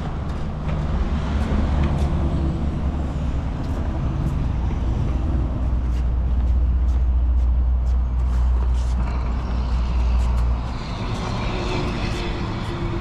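Delivery truck's diesel engine running under load, a loud steady low rumble that eases off suddenly about ten and a half seconds in.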